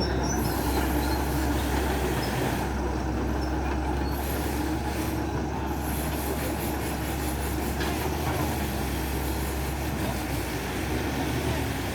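Steady mechanical rumble of engines running, with a faint high whine over it.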